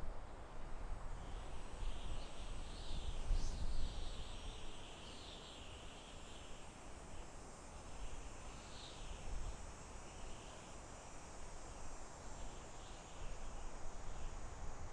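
Soft wind in a forest, rising and falling in gusts, strongest in the first few seconds and again near the end. Small birds chirp through it, over a faint steady high insect hum.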